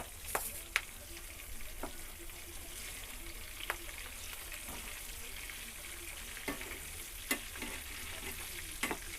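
Chicken pieces sizzling steadily in hot oil in a pan with green chillies, cashew pieces and curry leaves, while a spatula knocks and scrapes against the pan several times as it is stirred.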